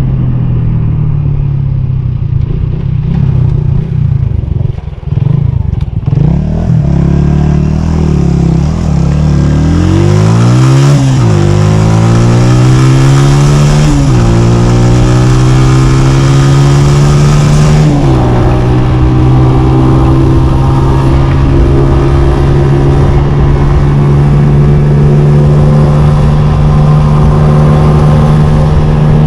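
Honda CG 125's single-cylinder four-stroke engine accelerating through the gears. Its pitch climbs and drops back at three upshifts in the first two thirds, then holds steady at cruising speed.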